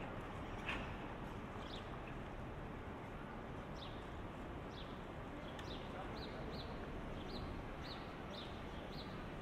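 Small birds chirping in short, high notes that slide downward, a dozen or so scattered through, over a steady hum of city street noise.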